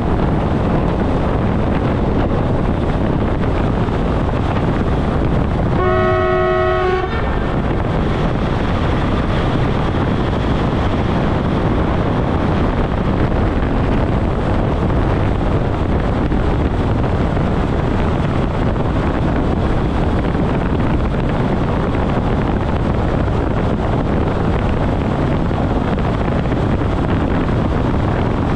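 ÖBB class 4024 Talent electric multiple unit running at about 128 km/h, with a steady rumble of wheels on rail and rushing air. About six seconds in, a train horn sounds once for about a second.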